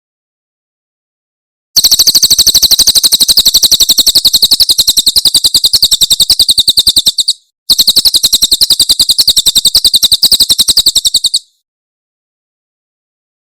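Cililin bird singing its 'tembakan' burst song: two long runs of very rapid, high-pitched repeated notes. The first lasts about five seconds and the second about four, separated by a short break.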